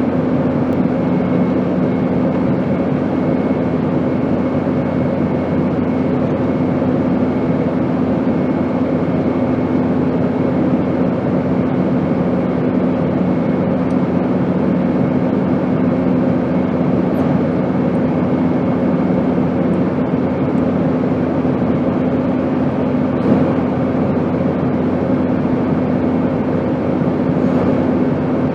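Steady airplane drone: an even rushing noise with a low hum and a faint high whine, unchanging throughout. One of the low hum tones fades out about two-thirds of the way through.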